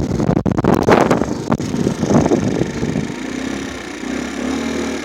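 A motorcycle ride heard from a moving microphone: heavy wind buffeting over the motorcycle's engine noise. About three seconds in the buffeting eases and a steadier, quieter engine hum comes through.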